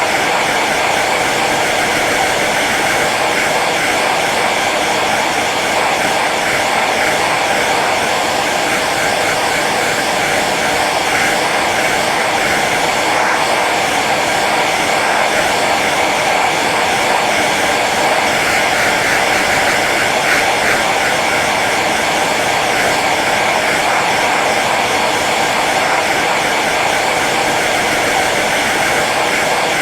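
Hair dryer running steadily on its low setting: an even blowing hiss of fan and airflow with a faint steady motor whine, unchanging throughout.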